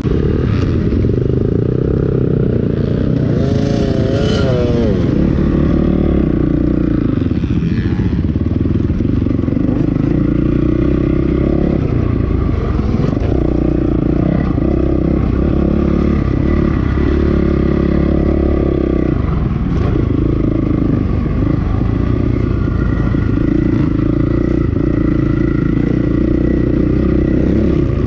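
2008 Honda CRF450R's single-cylinder four-stroke engine running under load, its pitch rising and falling again and again as the throttle is worked around the track.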